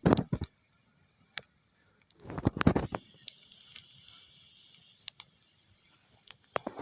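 Campfire crackling, with scattered sharp pops and a faint hiss, and a louder rustling crunch a little over two seconds in.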